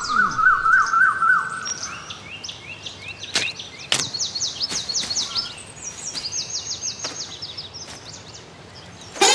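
Birds chirping in quick repeated rising calls, at first lower-pitched and then higher, with a couple of sharp clicks a little after three and four seconds in.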